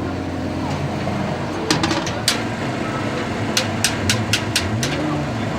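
Hand tools clicking and tapping on a rally car: a few sharp clicks, then a quick run of about six clicks a little over halfway through. A steady low engine hum runs underneath.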